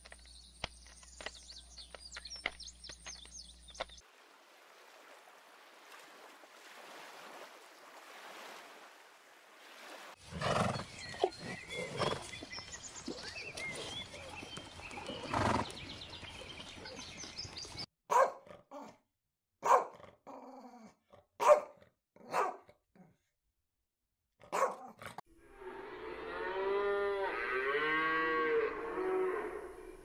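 A run of animal sounds. First insect buzzing, then rustling and chewing as zebras graze on hay, then several loud sharp knocks. Near the end a cow gives one long moo.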